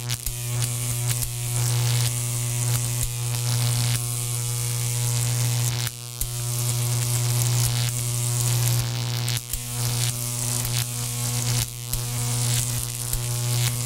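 Loud, steady electrical buzzing hum with a hiss on top, cutting out briefly a few times.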